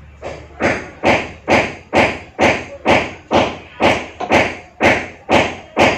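A knife or cleaver chopping meat on a cutting board: about a dozen steady blows, roughly two a second, the first ones lighter.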